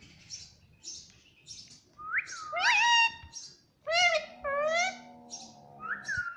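Pet parrot chirping and calling: a steady run of short high chirps, with louder rising-and-falling whistled calls about two, three, four and five seconds in and again near the end.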